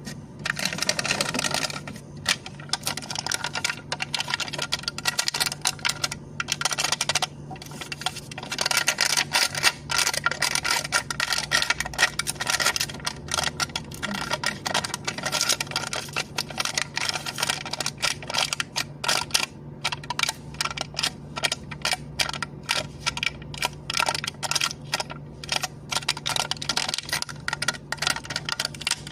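A cup lid being tapped and clicked in quick, irregular succession, several small clicks a second throughout, over a faint steady low hum.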